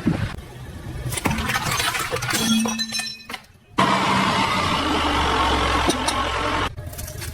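A car's tyres rolling over objects and crushing them, with cracking and crunching noises, in several cut-together takes; in the later part a loud steady noise with a low rumble from the car.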